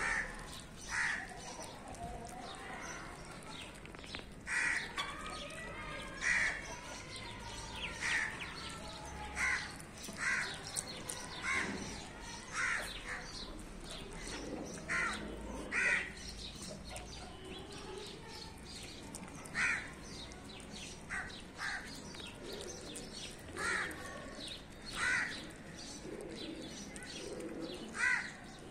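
Birds calling outdoors: short calls repeated about every second or two, with a few longer gaps.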